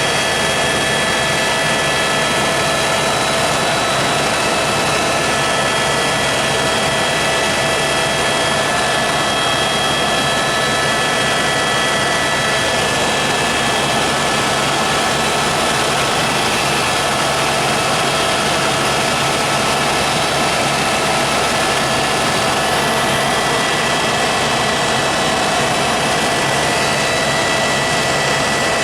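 Helicopter in flight: a steady, loud engine whine with several held tones over a dense wash of engine and rotor noise, unchanging throughout.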